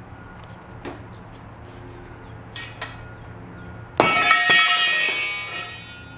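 A metal part is struck or dropped with a loud ringing clang about four seconds in, the ring dying away over about two seconds, after a few lighter knocks. A steady low hum runs underneath.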